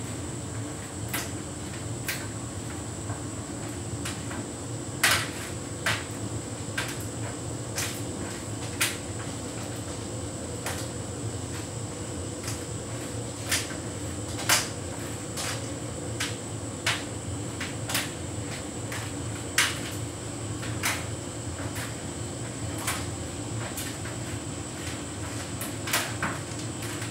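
Hotpoint heat pump tumble dryer running a synthetics cycle: a steady hum with a faint high whine, and irregular sharp knocks and clicks as the load tumbles against the drum.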